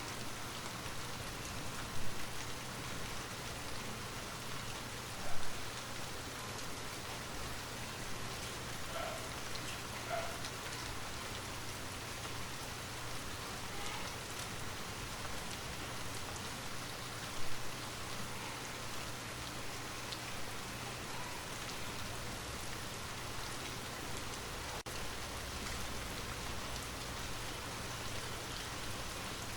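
Steady rain falling, an even hiss of drops on a surface, with a few brief louder taps about two, five and seventeen seconds in.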